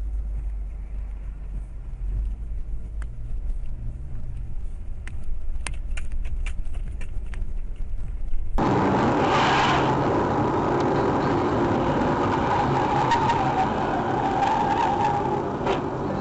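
Dashcam recordings of cars on the road. First comes a low road rumble with a few faint clicks. About halfway in, a cut brings louder, steady road and engine noise with a wavering mid-pitched tone through it.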